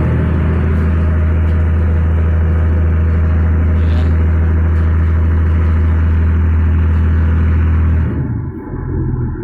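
Ship's engine running with a steady low drone, cutting off suddenly about eight seconds in.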